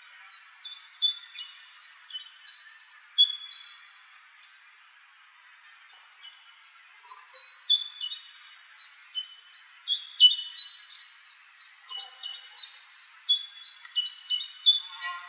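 Songbirds singing: a run of short high notes, each falling in pitch, over a fainter chorus of more distant birds. The notes are sparse at first with a brief lull, then come thick and steady from about halfway through.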